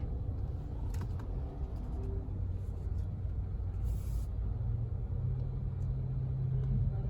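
Low steady rumble heard from inside a car's cabin as it sits at the start of a Tommy's Express car wash tunnel. A low hum strengthens about five seconds in, with a few faint clicks and a short hiss about four seconds in.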